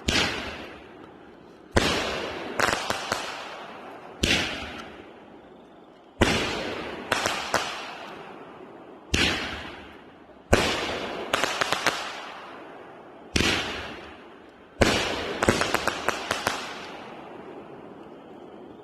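Raccoon Fireworks 500 g Flash Bang cake firing: a loud bang every one to three seconds, each with a long fading rumble, several followed by a quick cluster of sharp cracks from titanium thunder.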